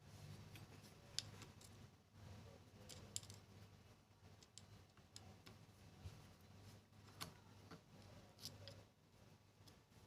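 Faint, irregular clicks and ticks of small metal sewing-machine parts and tools being handled, over a faint low hum.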